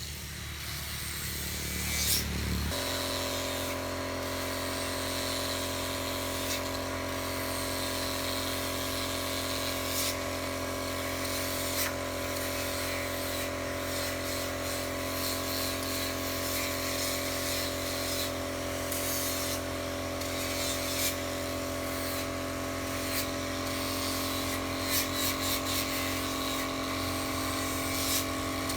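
Electric motor of a workshop machine running steadily, its note shifting about three seconds in, with occasional light clicks over it.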